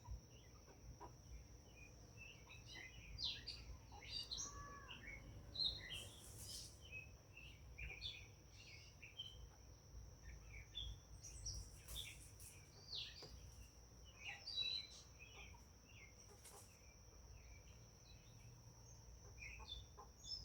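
Faint wild birds chirping in short, scattered calls, over a steady high-pitched hum.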